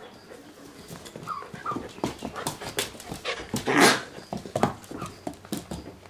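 Young coyote whimpering in short high whines, with scattered clicks and scuffles and one louder noisy burst about four seconds in.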